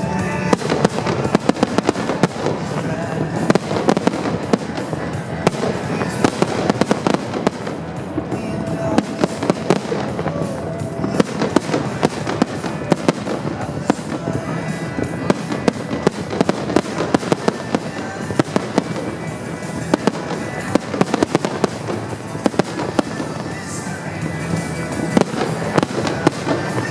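Fireworks finale: a dense, continuous barrage of shell bursts and crackling, several bangs a second, with music playing under it.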